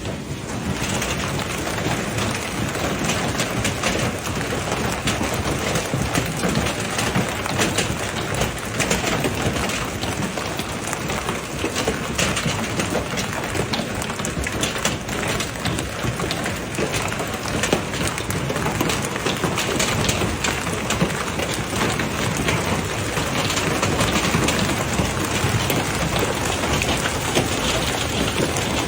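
Heavy rain pouring down, a dense, steady hiss with fine patter.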